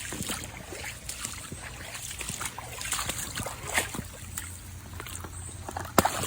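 Shallow creek water trickling, with irregular splashes, clicks and knocks as someone moves through the creek bed; a sharp knock about six seconds in is the loudest.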